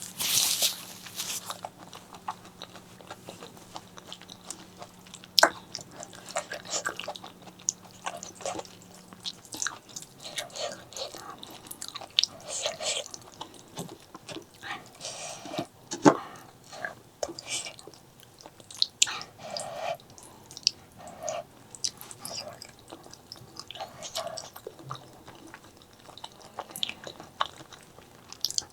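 Close-miked chewing and biting of spicy pork leg curry with rice, with irregular wet mouth smacks and clicks. There is a short louder burst right at the start, and two sharper clicks, about five and sixteen seconds in.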